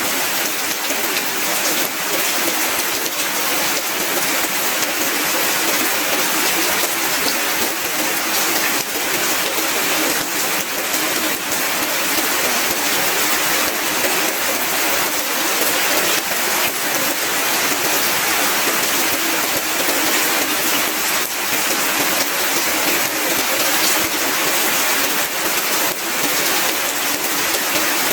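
Heavy rain falling steadily, a dense even hiss of drops on roofs and ground.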